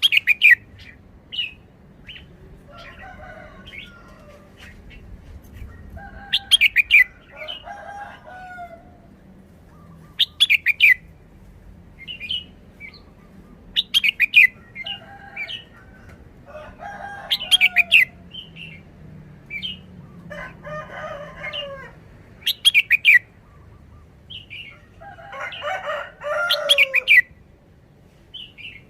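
Red-whiskered bulbul singing short, repeated song phrases every three to four seconds, each mixing sharp high notes with lower warbling.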